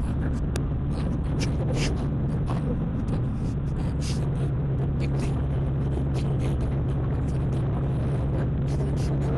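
A car driving: a steady low drone of engine and road noise.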